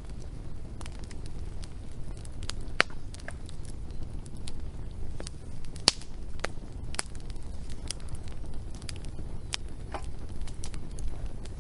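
Wood fire crackling: a steady low rumble of burning with scattered sharp pops and snaps, the loudest about three and six seconds in.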